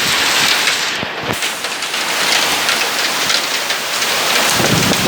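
Heavy downpour mixed with small hailstones: a dense, steady hiss of rain full of fine pattering impacts.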